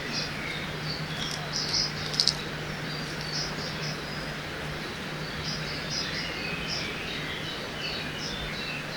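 Forest ambience by a river: many small birds chirping in quick short calls over a steady rush of flowing water. Two sharp clicks come close together about two seconds in.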